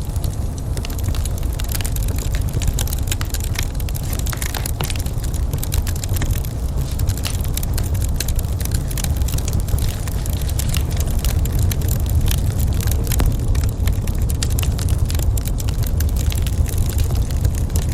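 Wood fire crackling in a fireplace, with dense, irregular snaps and pops over a steady low rumble.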